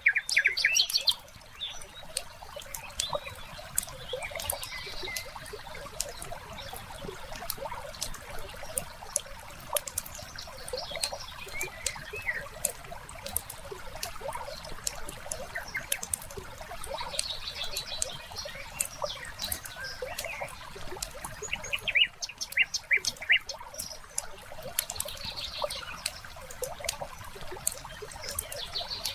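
Wood fire crackling with a steady scatter of sharp pops, with songbirds chirping now and then, including a quick run of chirps near the start and another about 22 seconds in.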